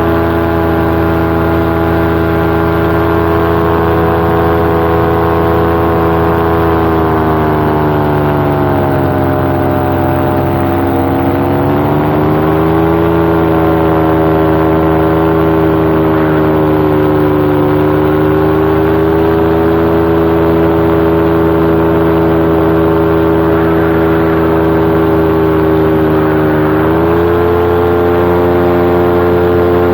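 Paramotor's two-stroke engine and propeller running steadily in flight, loud and close. The pitch sags for a few seconds about a third of the way in and comes back up, then steps up again near the end as the throttle changes.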